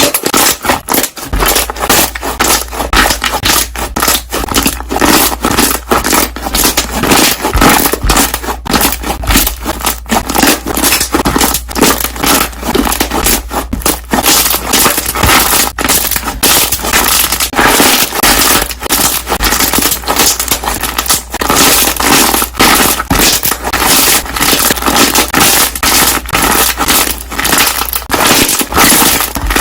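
Air bubbles popping in slime as it is squeezed and pressed, a dense, continuous crackle of many small clicks, with a steady low hum underneath.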